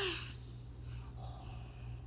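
A voice trails off at the start, then quiet room tone with a low hum and faint whispery voice sounds.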